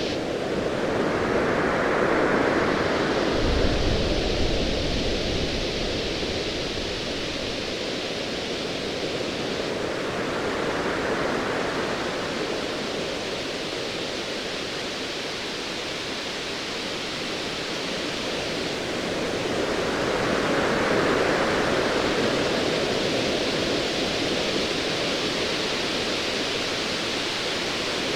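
Ocean waves surging in slow swells about every ten seconds over a steady wash of surf. A low, distant thunder rumble comes in a few seconds in.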